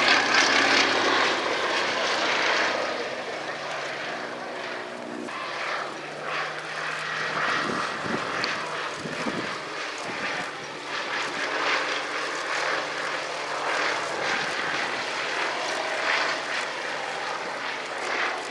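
Fairey Swordfish biplane's Bristol Pegasus nine-cylinder radial engine running as it flies past. It is loudest at the start and fades over the first few seconds, its pitch dropping about five seconds in, then runs on steadily at a distance.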